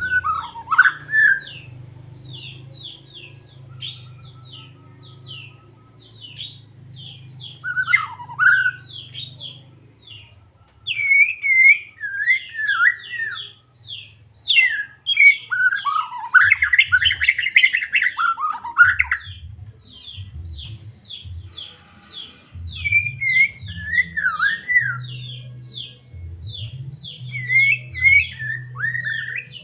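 White-rumped shama (murai batu) singing: a fast run of short, high, repeated chirps broken by louder, varied warbling phrases, the longest and loudest from about 16 to 19 seconds in. A low hum sits underneath.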